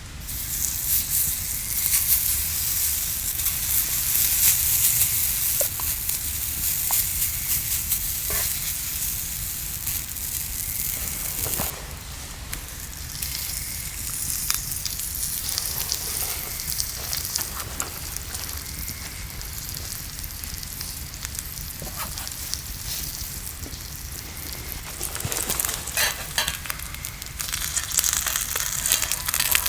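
Food sizzling and frying in a pan over a campfire, a steady hiss with scattered small pops, louder in the first few seconds and again near the end.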